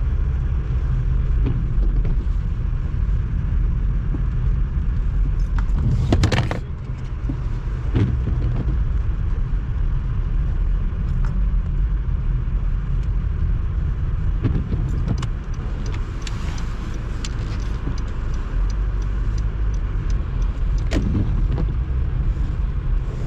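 Car driving on a snowy road: a steady low rumble of engine and tyres, with a few brief rattles, the loudest about six seconds in.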